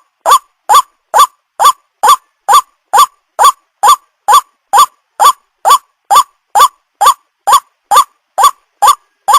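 White-breasted waterhen (ruak-ruak) calling: one short, harsh note repeated at an even pace of about two a second, each note rising and then dropping in pitch.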